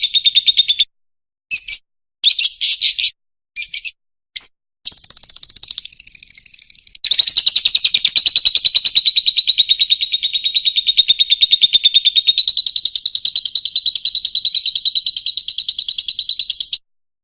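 Fischer's lovebird singing: rapid, high, chattering trills. A run of trills stops just under a second in, short bursts follow, and from about seven seconds one unbroken trill lasts until near the end.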